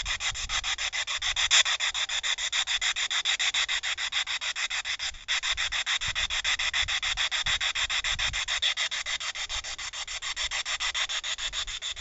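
Spirit box radio sweeping rapidly through stations: choppy static pulsing about six times a second, with one brief break about five seconds in.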